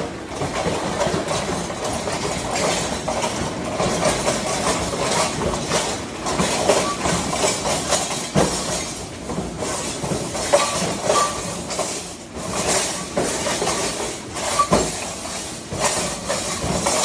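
Restaurant dish-pit noise: a steady hiss of washing water from a commercial dishwasher, with dishes and pans clattering and knocking and short ringing clinks throughout.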